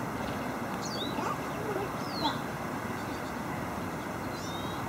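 Birds calling outdoors: a few short, high chirps that slide downward in pitch, about a second in, around two seconds in, and twice near the end. Under them runs a steady background rush.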